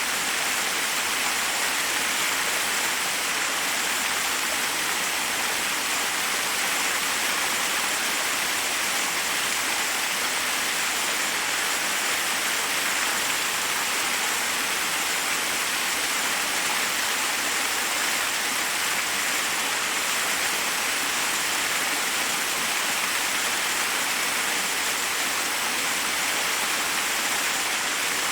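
Waterfall rushing steadily, an even hiss of falling water with no breaks or separate sounds.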